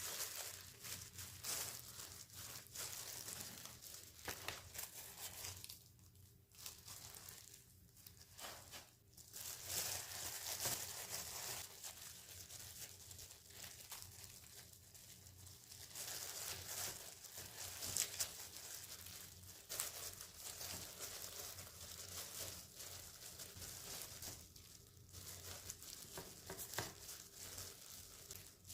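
Crinkling and rustling of something thin being handled, on and off, with short pauses about six to nine seconds in and again near the end, over a faint steady low hum.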